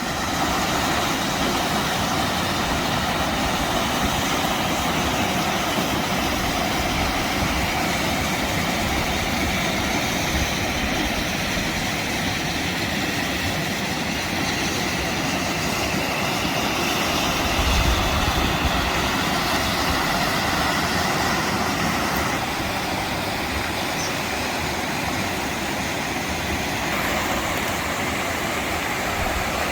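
The Sheep River rushing: a loud, steady wash of moving water.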